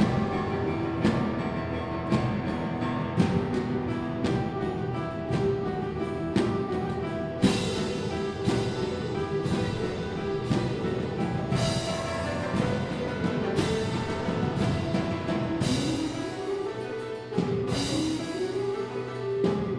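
Live instrumental ensemble music: held tones over regular drum strikes, with a few rising slides in pitch near the end.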